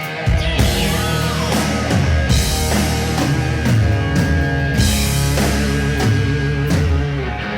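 Live hard rock band playing at full volume: distorted electric guitars with bent notes, bass and drum kit. The recording clips on the kick drum and loud bass notes.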